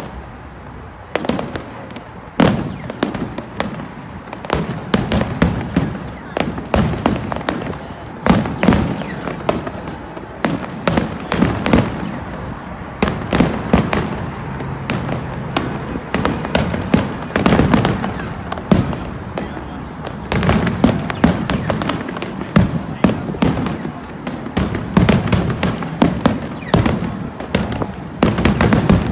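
Aerial fireworks finale: a rapid, near-continuous barrage of shell bursts, the bangs overlapping, each trailed by echoes off nearby skyscrapers.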